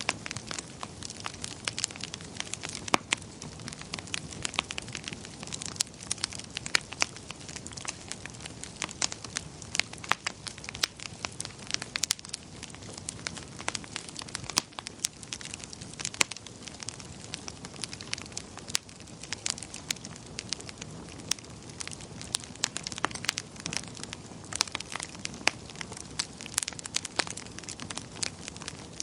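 Wood fire burning in a fireplace, with a steady low rush of flames and many sharp, irregular crackles and pops from the burning logs.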